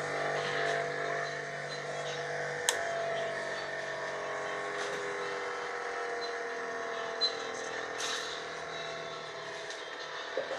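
6-inch bench grinder's motor running with a steady hum and whine. About two and a half seconds in there is a click, after which the low hum stops and the whine slowly falls in pitch as the wheels coast.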